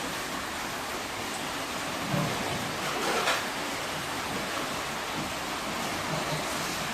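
Steady downpour of heavy rain, an even hiss with no let-up, with a couple of faint brief knocks about two and three seconds in.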